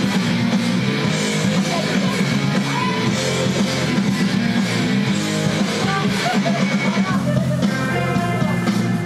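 Rock band playing, with guitar prominent, at a steady loud level.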